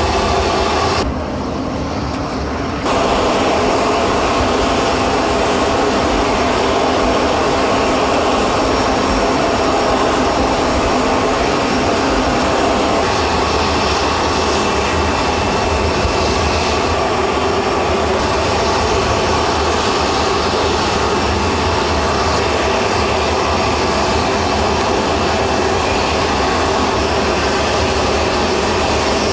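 Jet aircraft engines running with a steady, loud rush. A brief quieter stretch comes about a second in, then the sound returns at full level.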